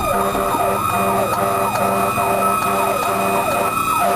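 Fire engine sirens running on an emergency response. A mechanical siren holds a steady high whine while an electronic siren cycles in quick repeating sweeps, two or three a second.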